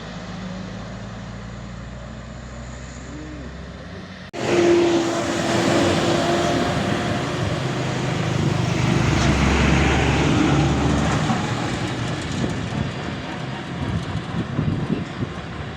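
Heavy road vehicles' engines running: a steady low engine hum, then, after an abrupt cut about four seconds in, louder traffic noise with a brief steady tone just after the cut and an uneven, fluttering level near the end.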